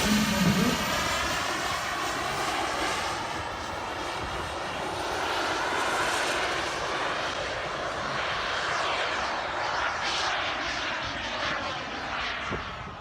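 Gas-turbine engine of a large radio-controlled model jet flying by: a steady jet rush and whine that sweeps up and down in pitch as the aircraft passes, fading near the end.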